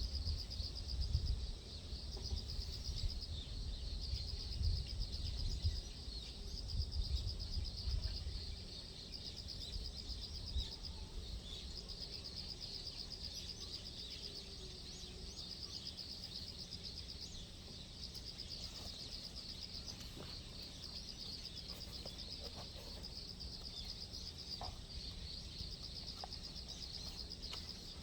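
Insects chirping in rapid pulsed trills, on and off in runs. Gusty low rumble of wind on the microphone during the first eight or nine seconds.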